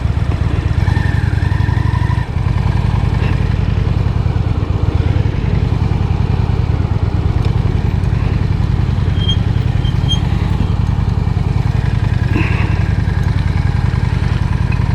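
Honda Shadow 750's V-twin engine running steadily at low revs, an even low rumble.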